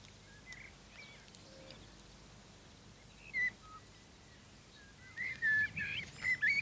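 Small birds chirping. There is a brief call about three and a half seconds in and a busier run of chirps and twitters over the last second and a half.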